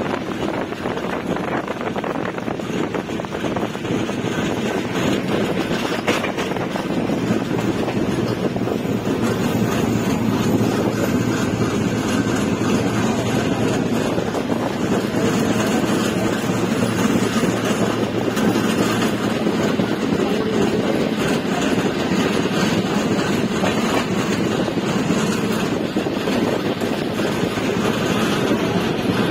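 Passenger train running along the track: a steady rumble of wheels on the rails.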